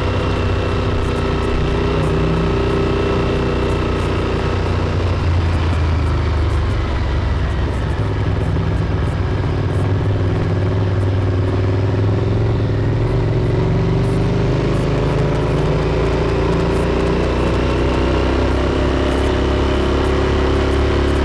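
Motorcycle engine running steadily under way, with road and wind noise. Its pitch sags a little near the middle and climbs again toward the end.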